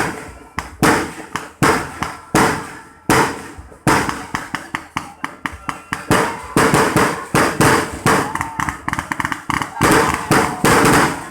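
Fireworks going off: a run of loud bangs, roughly one every three-quarters of a second, each fading out in a short echo. In the middle and again later they mix with stretches of fast, dense crackling.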